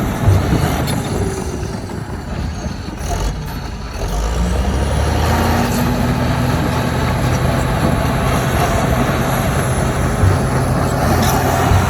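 Heavy diesel engine of earthmoving machinery running steadily, growing louder about four seconds in.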